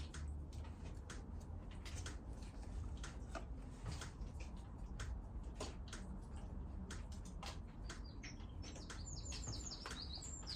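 A small bird chirping in quick high notes from about eight seconds in, over scattered light ticks and taps.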